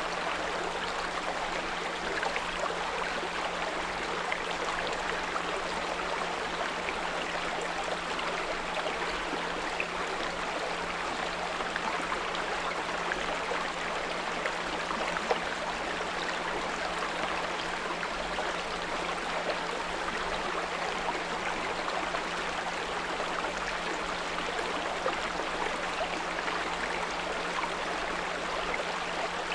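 A small brook burbling and trickling steadily over stones, with a continuous low hum of a 174 Hz pure tone mixed in under the water.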